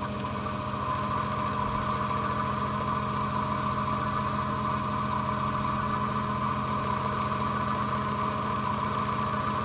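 Toy Bosch Logixx 8 washing machine running, its small electric motor turning the drum with a steady hum and a higher whine over it.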